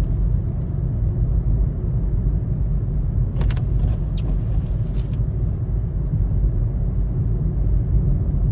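Steady low road and engine rumble inside a moving car, with a few faint clicks about three and a half to five seconds in.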